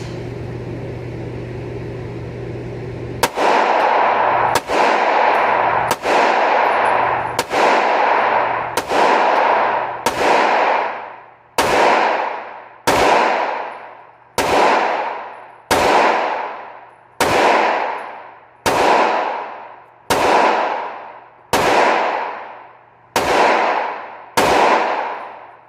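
A CZ firearm fired in slow, steady single shots, about sixteen of them at roughly one every one and a half seconds, each ringing out and fading away. The string starts about three seconds in, after a steady hum.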